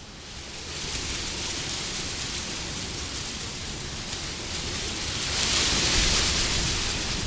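Wind blowing as a steady rushing noise that picks up about a second in, then swells into a stronger, hissier gust near the end before easing.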